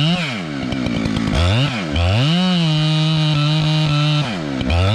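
Two-stroke chainsaw engine revved up and down in quick blips, then held at high speed for about two seconds before dropping back and revving again near the end.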